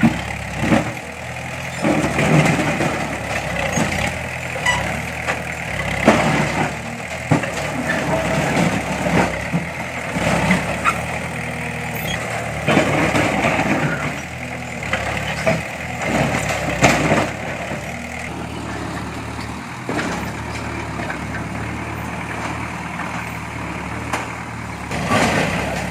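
Diesel engine of heavy earthmoving machinery running steadily, with irregular metallic clanks and knocks throughout.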